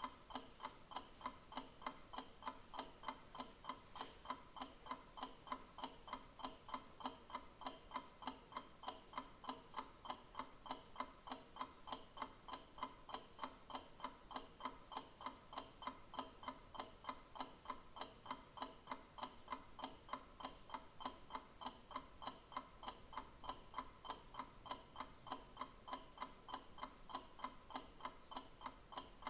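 Clock ticking: rapid, evenly spaced mechanical ticks, several a second, keeping a steady rhythm.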